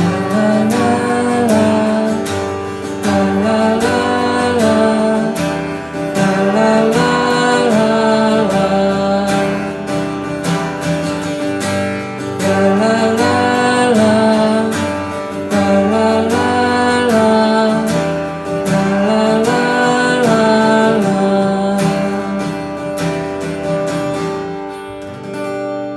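Strummed acoustic guitar accompanying a wordless sung melody that repeats the same rising-and-falling phrase about every three seconds, in a live song performance. The playing winds down and fades near the end.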